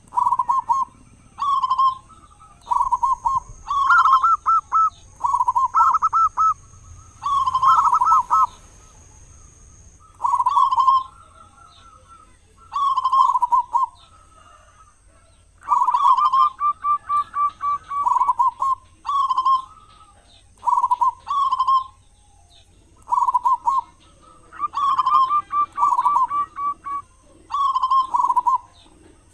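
Zebra dove calling: its cooing song repeated over and over in short bursts of quick, stuttering coos, a second or two apart.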